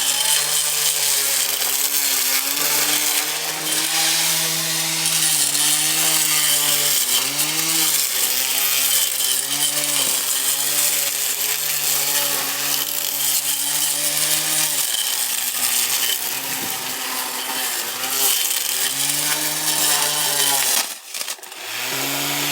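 Blender motor spinning the cutting blade of a homemade weed cutter at full speed. It makes a steady high whine whose pitch dips again and again as the blade meets weeds. It cuts out briefly about 21 seconds in, then runs again.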